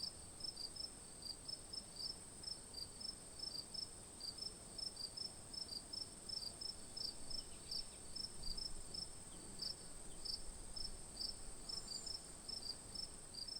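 Small bird chirping in a quick, steady series of high notes, about four a second, switching between two pitches, over a continuous high-pitched insect trill.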